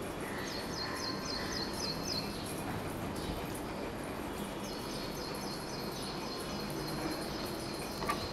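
A small bird chirping in two runs of quick, evenly repeated high notes, the second run longer, over a steady background hiss.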